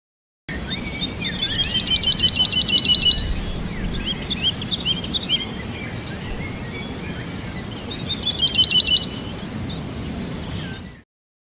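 Songbirds singing and chirping, with a rapid trill twice, over a steady high-pitched whine and a low background rumble. The sound starts abruptly about half a second in and cuts off shortly before the end.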